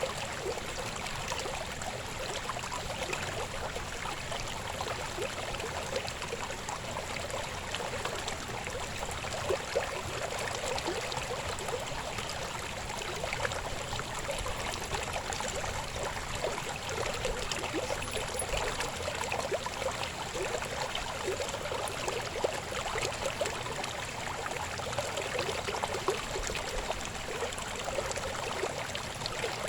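Shallow river babbling over rocks: a steady rush of flowing water with many small splashes and gurgles.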